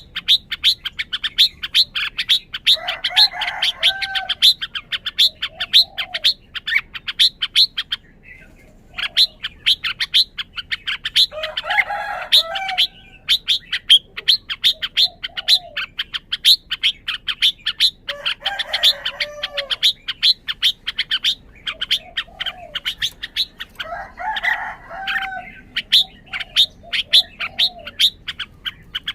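Red-whiskered bulbul chirping rapidly, several short high notes a second, with a lower warbling song phrase about every six to seven seconds.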